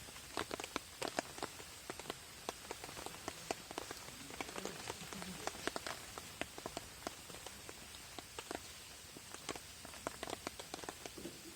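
Rain drumming on a tarp: a steady patter with many sharp, irregular drop taps.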